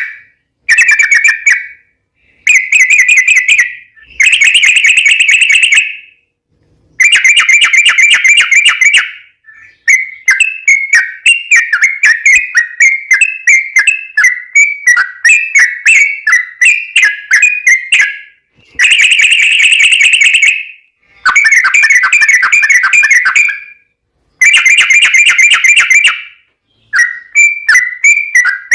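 Yellow-vented bulbul (trucukan) song, loud and fast: bout after bout of rapid bubbling notes around one pitch, each bout running one to several seconds with short pauses between. This is the long rattling 'ropel' song used as a lure to make other bulbuls answer.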